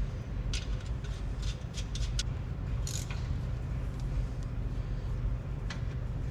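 Short metallic clicks and scrapes of hand tools working on the truck's rear shock mount, a quick cluster in the first three seconds and one more near the end, over a steady low rumble.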